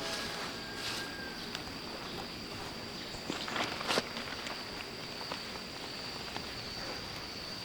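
A steady high-pitched insect drone, with scattered light crunches and clicks, the loudest a few seconds in.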